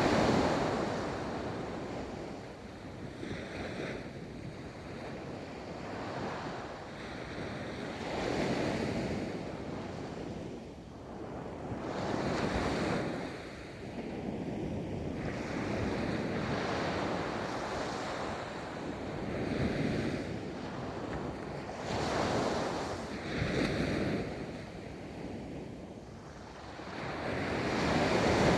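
Ocean waves breaking and washing up a beach, the surf swelling and falling back in surges every few seconds, with wind on the microphone.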